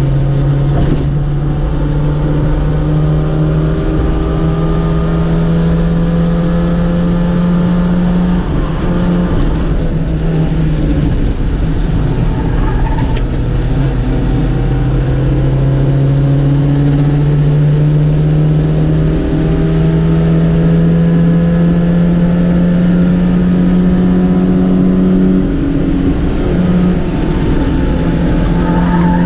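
Sprint car's engine heard from inside the cabin, pulling hard under full load. Its pitch climbs steadily and dips briefly several times as the driver shifts or lifts.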